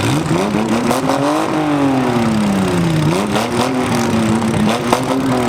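Small-car engines revving up and down hard, more than one at once, as the derby cars accelerate and back off. A single sharp crack sounds about five seconds in.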